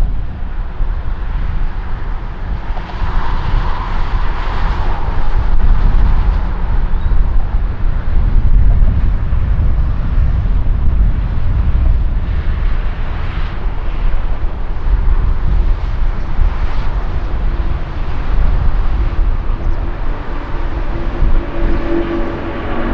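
Jet airliner engines rumbling at close range, a deep continuous noise with wind buffeting the microphone.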